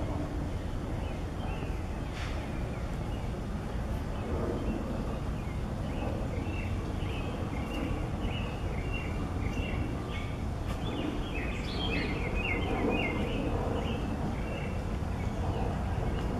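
Small birds chirping in a quick run of short, high notes through the middle stretch, over a steady low rumble of city background noise.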